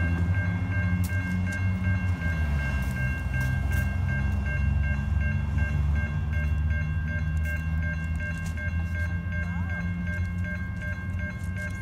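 Freight train's diesel locomotive rumbling as it nears a grade crossing, its engine note dropping slightly about two and a half seconds in. The crossing's warning bell rings steadily over it.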